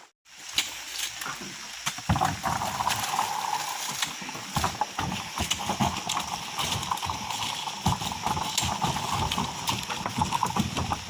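Oil palm fruit bunches landing one after another in irregular thuds and knocks as they are loaded onto a truck, over a steady wash of background noise.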